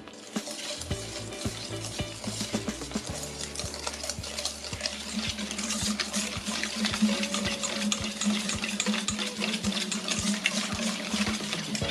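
An egg mixture being stirred and beaten by hand in a bowl, the utensil clicking rapidly and continuously against the bowl. Soft background music plays underneath.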